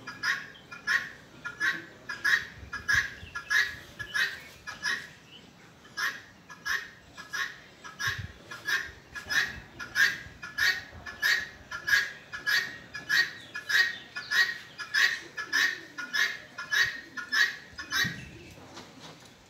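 A bird calling over and over in a steady rhythm, about three short calls every two seconds, with a brief pause about five seconds in and the calls stopping near the end.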